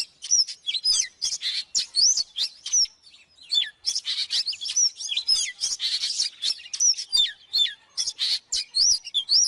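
Oriental magpie-robin singing: a fast, varied run of clear whistled notes mixed with rasping, scratchy notes, with a brief pause about three seconds in.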